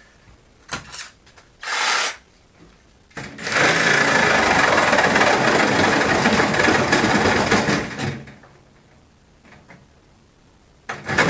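Cordless power tool cutting into the refrigerator's metal: two short bursts, then a steady run of about four and a half seconds, and another short burst near the end.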